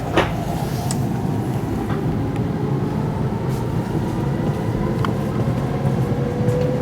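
Passenger train running, heard from on board: a steady low rumble with a faint motor whine that rises slowly in pitch as the train gathers speed. A short sharp click comes just after the start.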